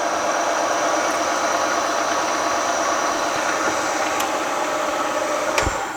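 Milling machine drilling into a flame-hardened steel crankshaft, the drill bit cutting with a steady grinding whine. Near the end there is a knock and the cutting sound drops away.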